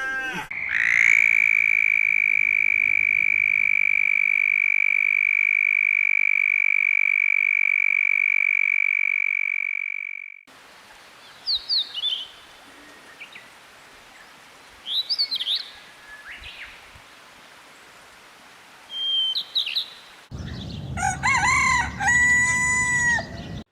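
A long, steady, high-pitched trill that cuts off about ten seconds in, then a few short bird chirps, then a rooster crowing near the end.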